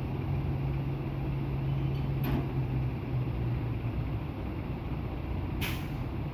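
Semi truck's diesel engine running steadily, with two short hisses of air, a faint one about two seconds in and a louder one near the end, typical of the truck's air brakes.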